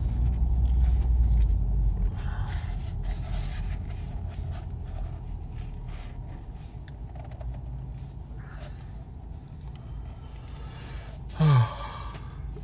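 Steady low rumble of a car cabin while driving, heavier for the first two seconds. Near the end, a brief vocal sound falls in pitch.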